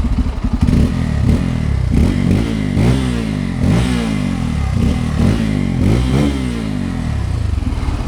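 Bajaj Pulsar N250's single-cylinder engine revved in about seven quick throttle blips, roughly one a second, each rising and falling, then settling to idle near the end.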